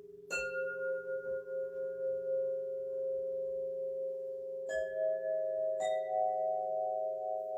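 Singing bowls struck three times, about a third of a second in and again near five and six seconds. Each strike adds a new, higher ringing tone that sustains and wavers over a lower bowl tone already sounding, the tones layering together.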